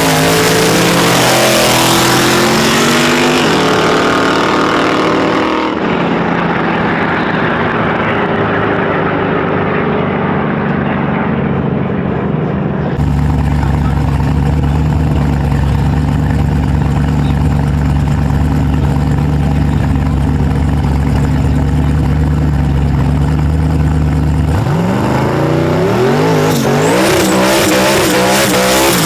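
Street-race car engines at the starting line. They rev up in rising sweeps at first, then the twin-turbo Camaro idles steadily for a long stretch and revs up again near the end.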